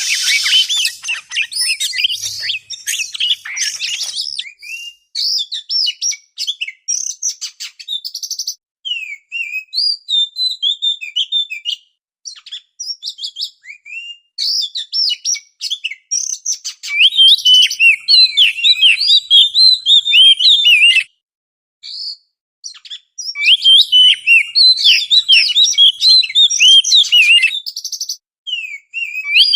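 Oriental magpie-robin song: rapid runs of varied chirps and whistled notes in loud bursts, with short pauses between phrases.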